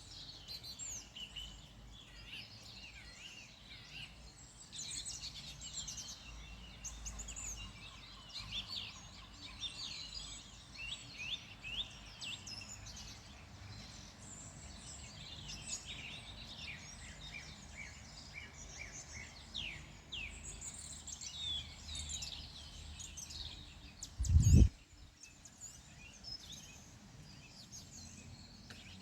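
Several small birds singing, a dense mix of short chirps and quick falling calls, over a steady low rumble. About three quarters of the way through, a brief, loud low thump.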